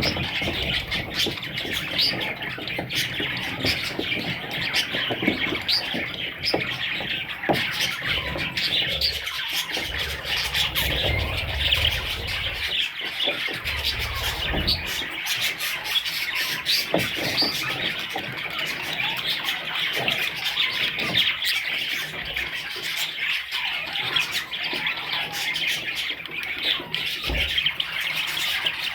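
A flock of budgerigars chattering and squawking, many short overlapping calls without a break.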